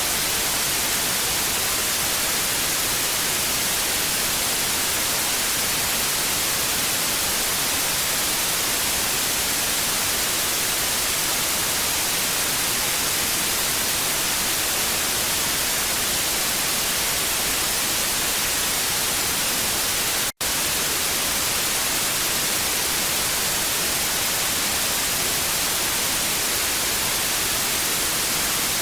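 TV static: a steady, even hiss, brightest in the high frequencies, with a momentary dropout about two-thirds of the way through.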